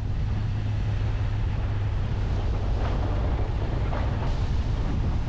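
1999 Jeep Cherokee XJ driving: a steady low rumble of engine and road noise, with a couple of light knocks about three and four seconds in.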